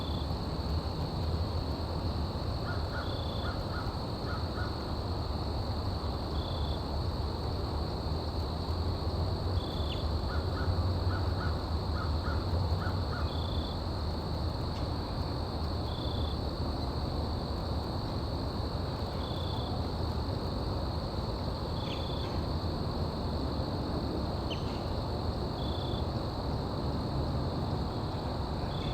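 Outdoor ambience under a steady low rumble and a thin, steady high drone. A crow caws in two runs of about six caws, a few seconds in and again near the middle. A short high note repeats about every three seconds throughout.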